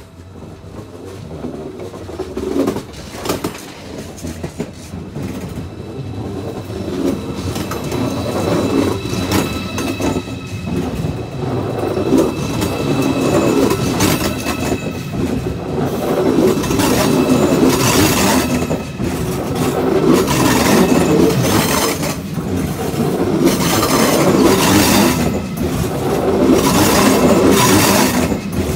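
A Deutsche Bahn ICE 4 high-speed train pulls slowly into the platform and its coaches roll past. The wheels clack irregularly over rail joints and points, growing louder as the cars pass. A high steady whine is heard in the first half and then fades.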